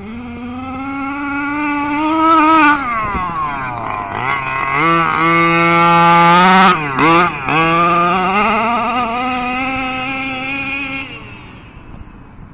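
HPI Baja 5B's two-stroke petrol engine with a Jet Pro tuned-pipe exhaust, revving hard as the RC car drives. The pitch climbs, drops sharply about three seconds in, climbs again with two quick throttle dips about seven seconds in, then falls away and fades about eleven seconds in.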